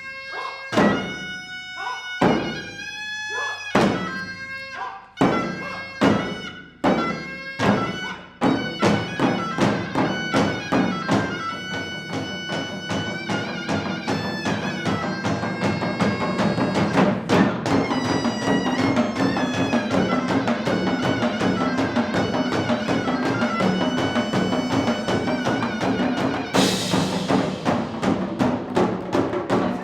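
Live Korean traditional percussion ensemble playing, with a reedy wind melody bending in pitch over the drums. The strikes begin well apart, then about a third of the way in quicken into fast, dense drumming, with a cymbal crash near the end.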